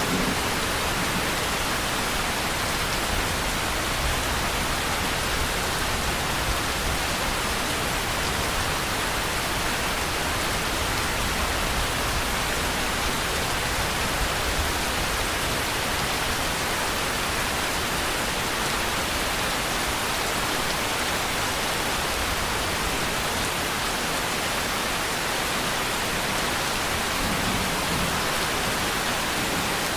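Steady, dense rainfall, an even hiss of raindrops with no change in level.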